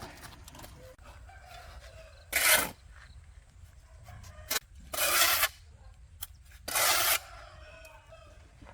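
Chickens in a yard, with three short, harsh bursts of noise about two, five and seven seconds in, and a sharp click between the second and third.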